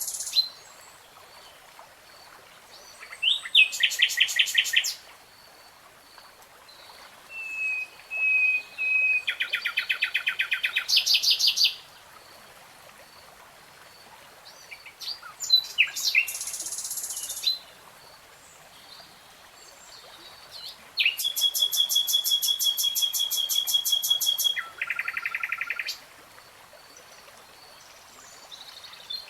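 A songbird singing in four separate phrases of fast repeated-note trills, each lasting two to five seconds, with pauses of a few seconds between them.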